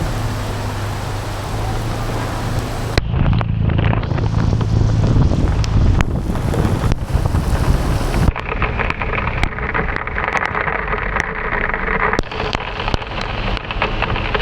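Heavy rain while riding through traffic: a steady rain hiss over a low rumble of wind and vehicles. About eight seconds in, the rumble drops back and dense, sharp raindrop taps on the camera take over.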